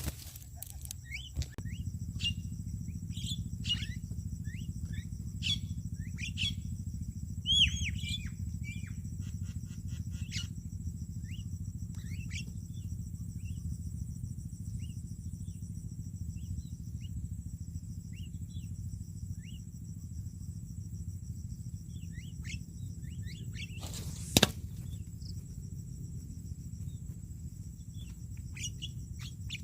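Birds calling in short chirps and quick downward-sweeping whistles, busiest in the first half, over a steady low rumble and a steady high drone. One sharp click about 24 seconds in.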